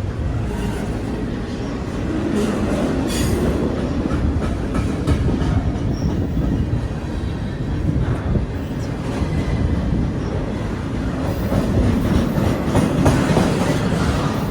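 Train cars rolling past on the rails with a steady rumble and wheels clicking over the rail joints, swelling louder twice as cars go by.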